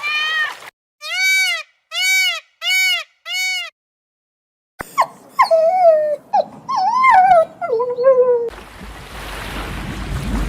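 Dog whimpering and yelping: four identical short high cries, a pause, then a run of whines gliding up and down in pitch. A low noisy rumble takes over about eight and a half seconds in.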